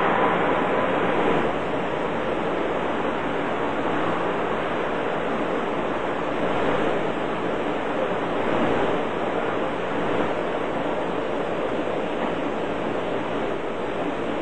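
A steady rushing noise with no distinct calls or knocks.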